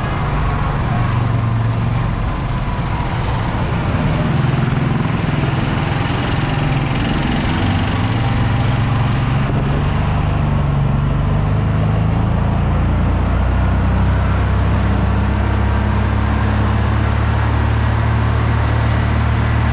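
Small buggy car's engine running as it drives, its pitch shifting up and down about halfway through, then holding steady.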